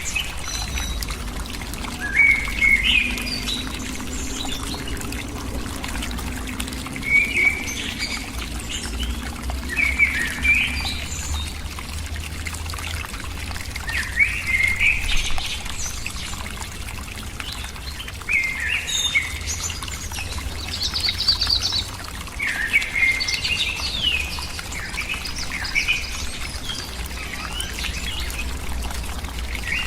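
Bird calling in short chirpy phrases every few seconds, with a brief higher rapid trill about two-thirds of the way through, over a steady background hiss and low rumble.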